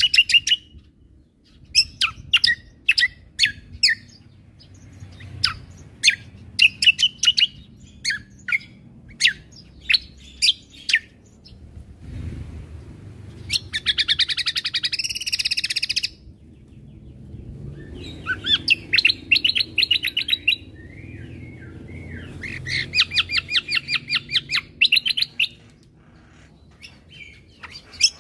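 Cucak kombo (kecial kombo) songbird singing: a string of short, sharp chirps, then several fast rattling trills of two to three seconds each. Underneath is a faint low rumble.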